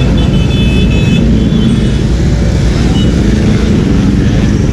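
Loud, steady rumble of road traffic, with a brief high thin tone lasting about a second near the start.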